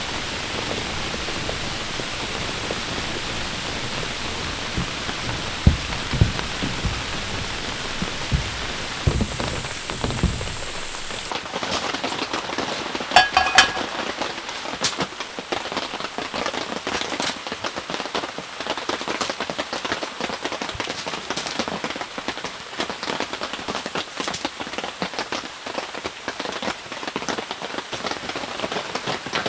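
Heavy rain. For about the first eleven seconds it is a dense, even hiss with a few low thumps. After that it is heard as many separate drops striking a surface close by, with a brief cluster of clicks about thirteen seconds in.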